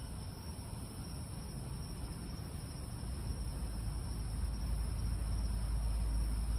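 Night insects, crickets or similar, trilling in a steady high-pitched chorus. A low rumble grows louder from about halfway through.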